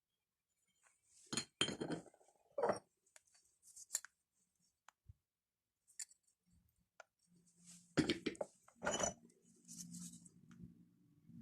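Hard stones clinking and knocking against each other or a hard surface: a quick cluster of knocks between one and three seconds in, scattered small clicks, then another pair of knocks about eight seconds in. A low steady hum starts shortly before the second cluster.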